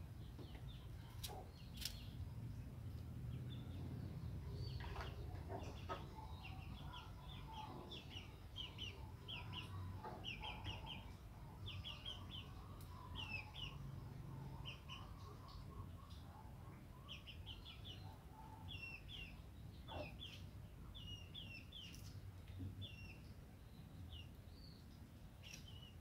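Small birds chirping in the background: short high chirps in quick clusters, repeating through most of the stretch over a low steady rumble of outdoor ambience, with a few faint clicks.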